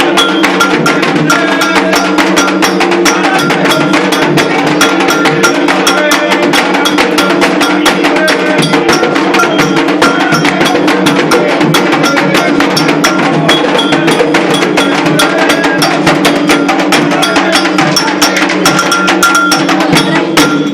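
Afro-Brazilian ritual drumming on atabaque hand drums, led by the rum drum, playing a fast, dense toque for Exu, with a struck wooden or bell-like percussion part; it stops suddenly at the very end.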